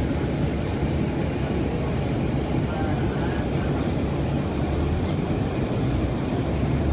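Steady low rumble of aircraft engines with a low hum underneath, growing slightly louder near the end.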